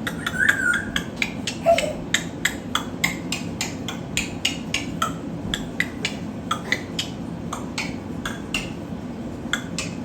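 Small pet bird making a rapid series of short, sharp chirps, about three a second, with a brief whistled note near the start, over a steady low hum.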